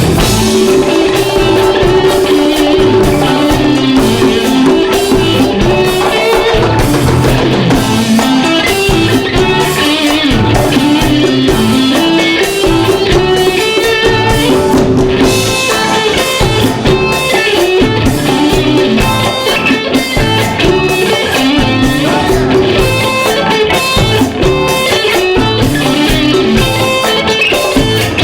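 Live rock band playing, an electric guitar to the fore over a drum kit.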